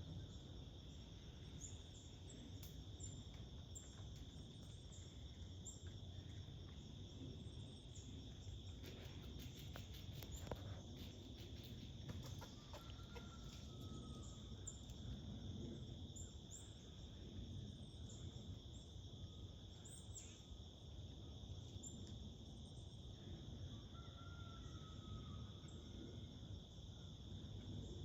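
Faint outdoor morning ambience: crickets or other insects trilling steadily at a high pitch, small birds chirping every second or two, and twice a short drawn-out call from a distant bird.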